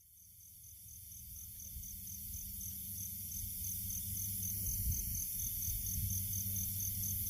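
Insects chirping in a steady high pulse, about four chirps a second, over a low rumble of wind, fading in after a cut.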